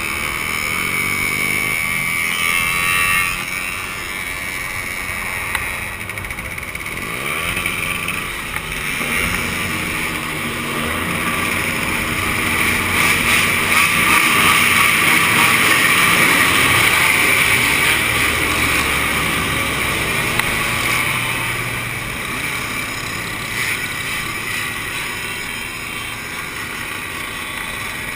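Two-stroke motorcycle engines running and revving, their pitch rising and falling, louder around the middle.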